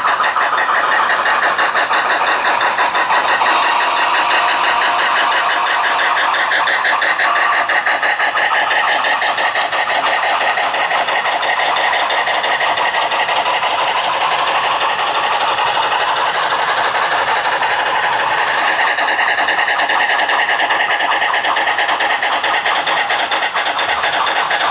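HO scale model Union Pacific Big Boy and Challenger steam locomotives running with a long freight train. Their sound decoders give a fast, steady chuffing over the rolling noise of the train on the track.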